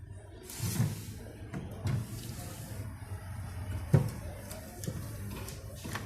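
A few knocks and clatters of things being handled, over a steady low hum; the loudest knock comes about four seconds in.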